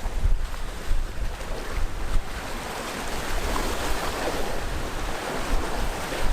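Sea waves breaking and washing along the shore, a wave's rush swelling through the middle. Wind buffets the microphone with a low rumble near the start.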